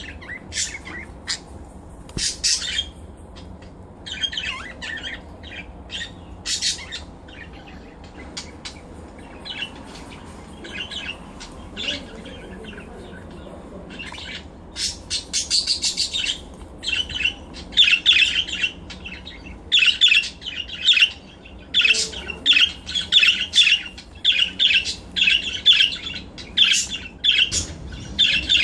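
Pet budgerigar squawking and chirping in short, harsh calls as it spars with a person's thumb. The calls are scattered at first, then come thick and fast from about halfway through.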